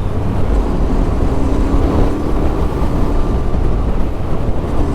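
Yamaha Ténéré 700's parallel-twin engine running steadily while riding, with wind noise on the microphone.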